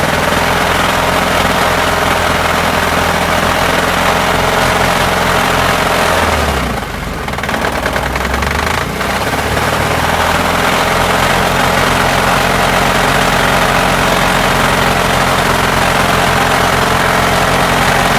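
Turbocharged VAZ-2104's four-cylinder engine running with a knock that the owner cannot trace; the valves, valve springs, timing chain and chain damper have been checked or replaced. The sound dips briefly about seven seconds in as the engine speed changes, then runs steadily again.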